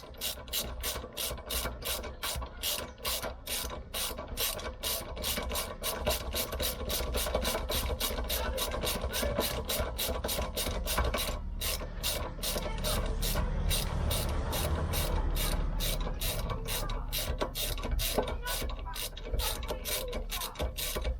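Hand ratchet wrench clicking steadily, about three clicks a second, as it winds out a rear brake caliper mounting bolt, with a brief pause about halfway.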